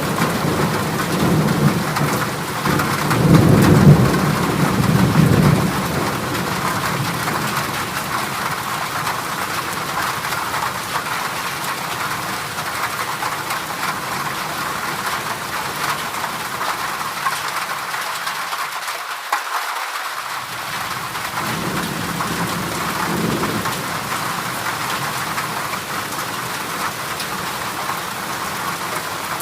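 Heavy rain falling steadily on a corrugated zinc roof, with a rumble of thunder in the first few seconds and a fainter one about two-thirds of the way through.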